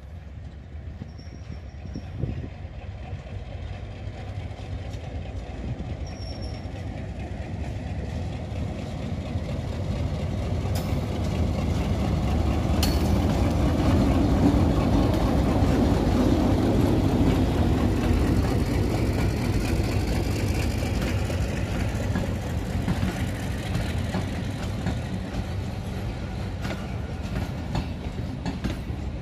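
ALCO-built PHA-20 diesel-electric locomotive drawing a passenger train in slowly. Its engine rumble builds as it approaches and is loudest as it passes, about halfway through. The coaches then roll by with their wheels clicking over the track.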